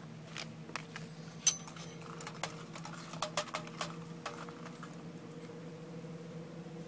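Scattered light clinks and taps of a utensil and camp cookware being handled, the loudest about a second and a half in and a quick cluster of them around the middle, over a faint steady hum.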